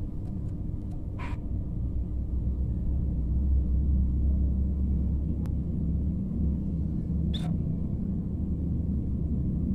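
A low, steady rumble that swells a few seconds in, with two short, high chirps from a flamboyan bird, about a second in and near the end.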